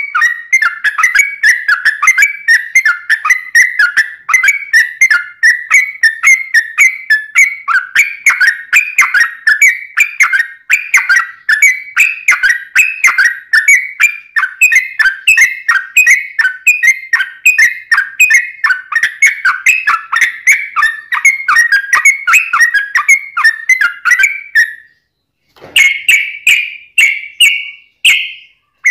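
Yellow-vented bulbul (trucukan) singing a long, rapid run of whistled, chattering notes without a break. The song stops about 25 seconds in, then a few short phrases follow near the end.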